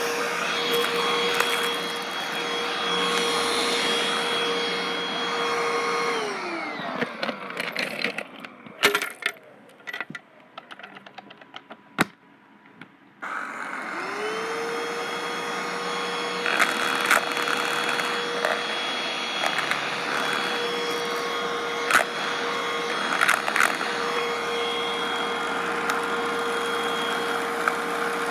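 Black & Decker vacuum cleaner running, switched off with its motor whine winding down about six seconds in, then, after a few clicks, switched back on about thirteen seconds in, the whine rising back up to speed. While it runs, sharp crackles come from crunchy debris being sucked up.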